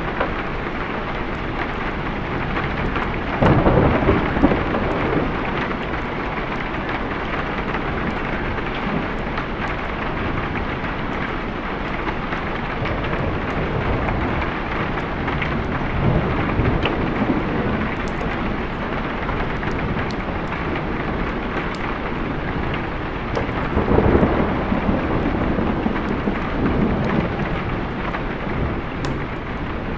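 Steady heavy rain with rolling thunder that swells up twice, a few seconds in and again some twenty seconds later.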